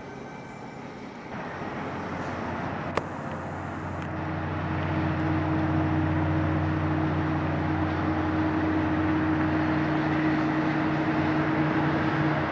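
A Metrolink commuter train's diesel locomotive running by, its engine drone and rumble growing louder over the first few seconds, then holding steady as a low hum. A single sharp click about three seconds in.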